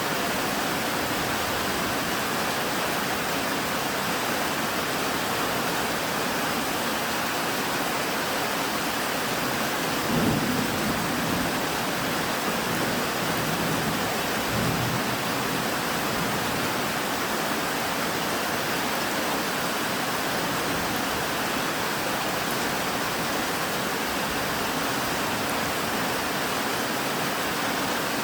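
Steady rain falling, with a low rumble of thunder about ten seconds in and a second shorter one a few seconds later.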